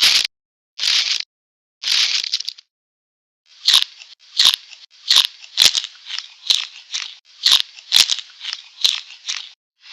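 Cartoon sound effect of short, crisp snipping strokes: three separate ones, a pause, then a quick run at about two a second.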